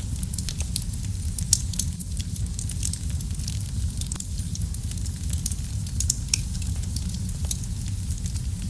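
Wood fire crackling in a fireplace: a steady low rumble of flames with frequent small snaps and pops, one sharper pop about a second and a half in.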